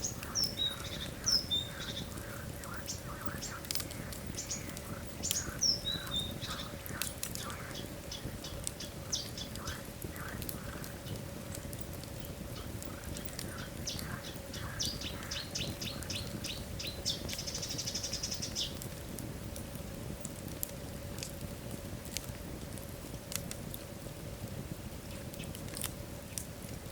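Wood fire in a fireplace crackling and popping over a steady low rush of burning logs. A few short high chirps come in the first six seconds, and a quick run of crackles builds to a brief hiss a little past halfway.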